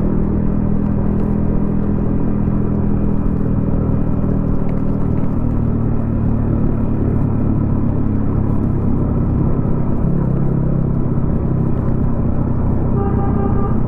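Yamaha XSR155's single-cylinder engine running through a homemade aftermarket exhaust while cruising, its exhaust note holding a fairly steady engine speed.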